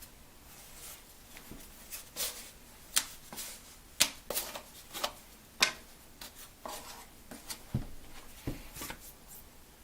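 Hand-tool work at a granite countertop: a string of sharp clicks and taps with short scraping rubs, the sharpest three in the middle of the stretch.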